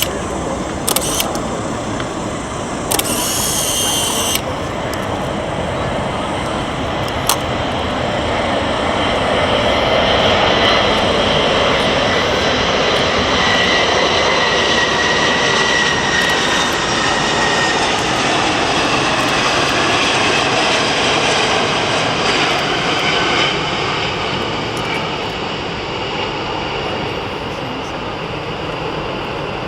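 Boeing 747 jet engines on low final approach: a rushing jet noise with a high fan whine that swells to its loudest about a third of the way in, then slowly fades as the airliner passes. A few sharp clicks and a short hiss sound in the first few seconds.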